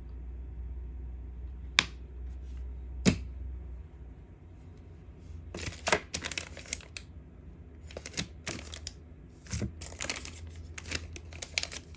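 Two sharp clicks about a second apart, then repeated bursts of crinkling as plastic wrapping is handled.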